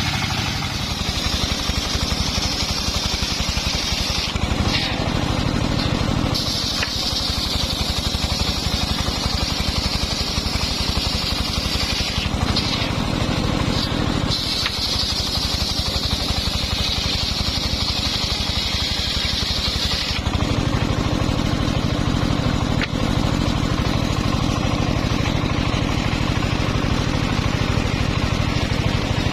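Engine-driven circular saw running steadily, with a high sawing sound of the blade cutting timber three times: from about one to four seconds in, from six to twelve seconds, and from fourteen to twenty seconds. Between the cuts and over the last nine seconds only the engine is heard.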